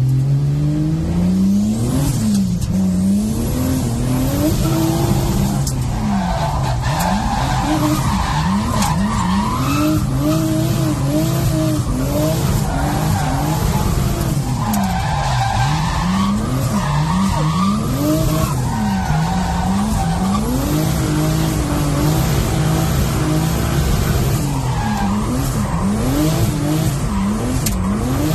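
Turbocharged BMW M50 straight-six in a rear-wheel-drive Mk1 Golf drift car, heard from inside the cabin. The revs rise and fall over and over while it drifts, and the tyres squeal.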